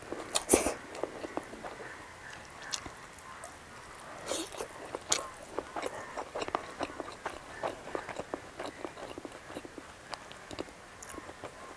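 Close-up eating sounds of a person eating rice, greens and omelette by hand: chewing with many small, irregular wet clicks and lip smacks.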